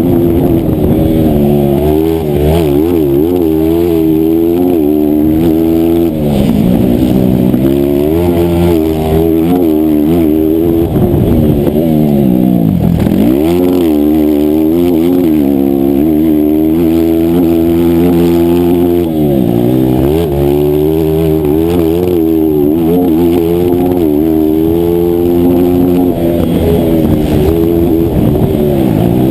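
160cc single-cylinder racing motorcycle engine at full throttle, loud and close. Its pitch keeps climbing and falling through the gears, with three deep drops about six seconds apart as the throttle is shut and the bike downshifts.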